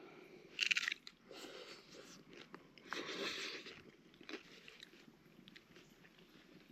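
Tortilla chips crunching as they are bitten and chewed, in a few short bursts with a couple of light clicks.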